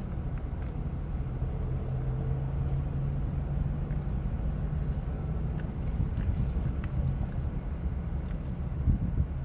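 Steady low rumble and drone of an idling vehicle, with a few faint clicks over it.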